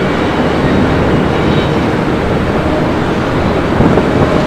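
A train running past with a loud, steady rumble.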